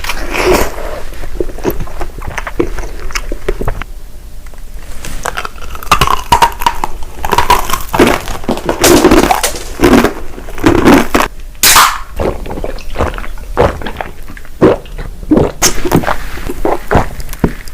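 Close-miked eating: crunchy bites and chewing, with many irregular sharp crackles.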